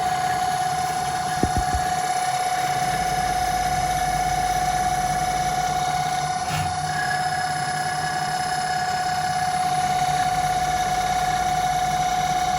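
Home-built CNC lathe running, a steady high whine on one unchanging pitch, with a single short knock about a second and a half in.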